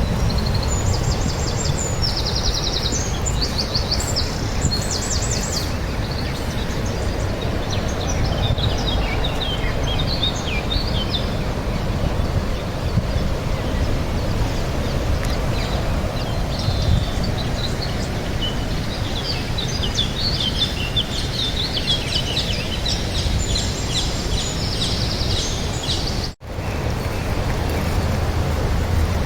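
Small birds singing outdoors in several bouts of high chirps and trills over a steady low rumble, with a brief dropout near the end.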